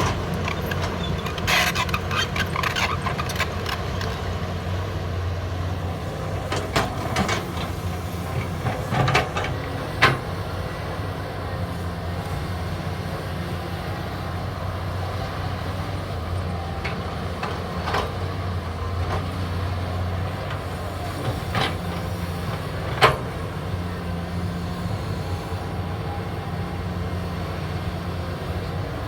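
Diesel engine of heavy earthmoving machinery running steadily, with sharp knocks and clanks now and then, the loudest about ten seconds in and another about two-thirds of the way through.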